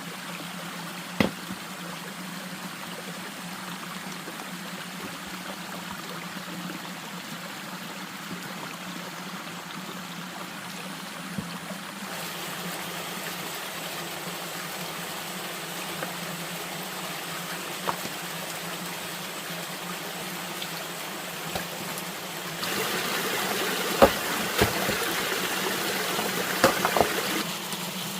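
Steady running water with a low hum under it. A few sharp knocks come through, and the flow grows louder for a few seconds near the end.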